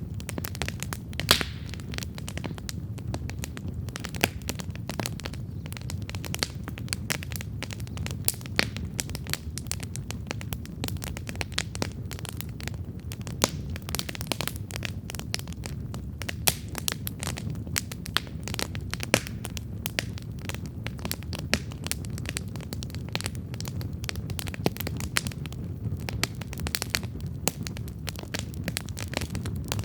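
Wood campfire burning and crackling, with frequent sharp, irregular pops over a steady low rumble of the flames.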